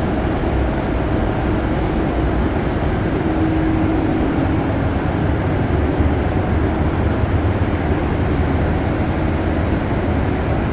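Steady hum and rush of air from a running ventilation fan, even in level throughout, with a faint steady tone in it.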